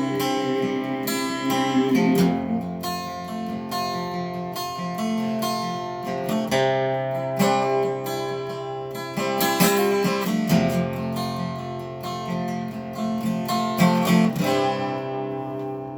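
Acoustic guitar strummed and picked through the closing instrumental of a country song, chords struck about once a second, gradually getting quieter toward the end.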